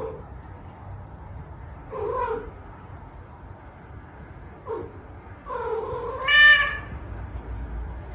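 A cat meowing again and again: short calls, then a longer call about five and a half seconds in that turns into a loud, high yowl.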